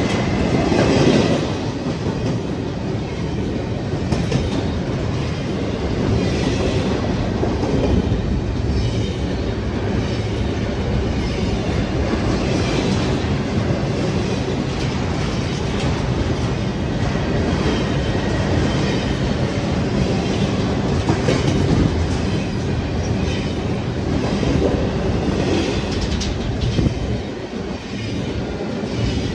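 BNSF intermodal freight train's well cars rolling past close by: a steady rumble of steel wheels on rail with clickety-clack over the rail joints and, at times, a faint wheel squeal.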